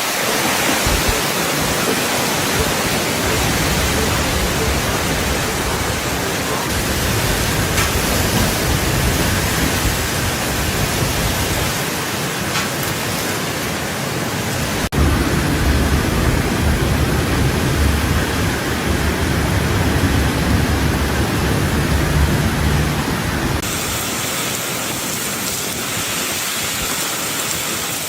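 Heavy cyclone rain and strong wind making a loud steady hiss, with deep rumbling wind buffeting on the microphone through the middle stretch. The sound changes abruptly a few times.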